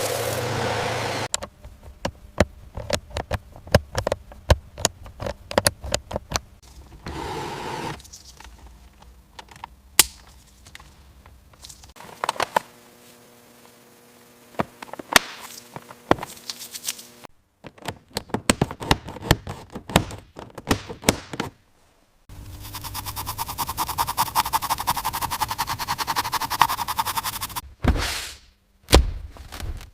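Hand tools knocking and clanking on metal car parts in a series of irregular sharp strikes, with a power tool running at a fast even rattle for about five seconds in the second half.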